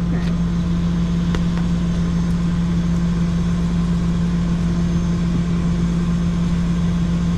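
Tow truck's engine idling with a steady, unchanging low hum. There is a faint click about a second and a half in.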